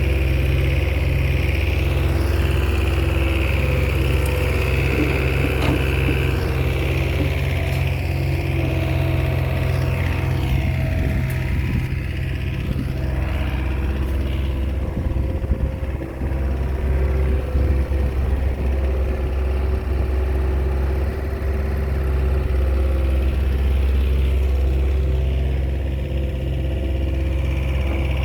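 Small Komatsu crawler bulldozer's diesel engine running steadily, with a short unsettled stretch and slight dip in level around the middle.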